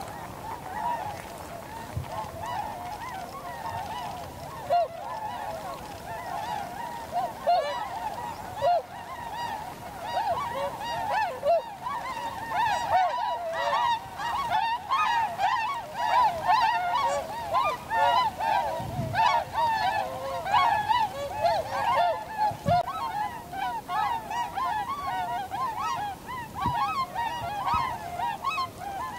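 A flock of tundra swans calling: many short, overlapping honking calls that build into a dense, continuous chorus partway through.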